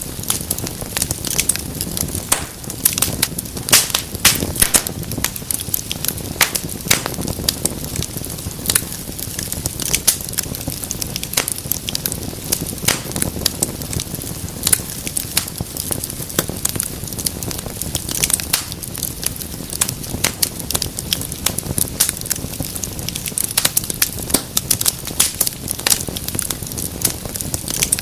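Wood fire in a fireplace crackling steadily, with frequent sharp pops and snaps over the low rush of the flames.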